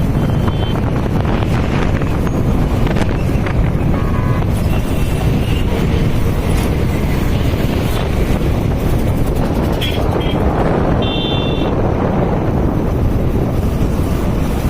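Wind rushing over the microphone with steady road and traffic noise from a vehicle crossing a bridge. A few short high-pitched beeps come through, one about four seconds in and more around ten to eleven seconds.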